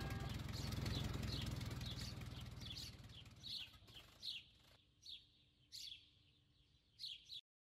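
A small bird chirping over and over in short, falling chirps, a few each second, over a low background rumble that fades away during the first few seconds. The sound cuts off abruptly just before the end.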